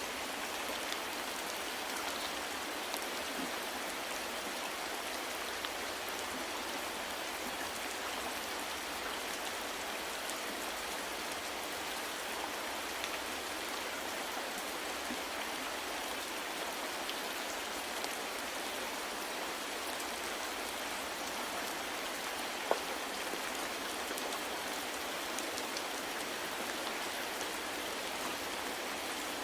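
Steady soft rain falling, an even hiss with scattered individual drops pattering on a surface and one slightly louder drop about 23 seconds in.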